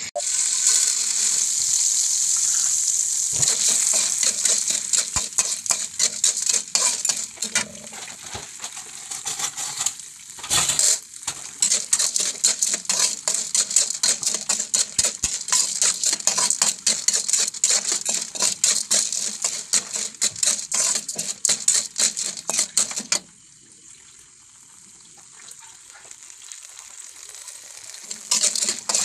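Hot fat sizzling and crackling in a pan as unpopped popcorn kernels are stirred with a spatula. The sizzling drops to a quiet hiss for several seconds near the end, then starts up again.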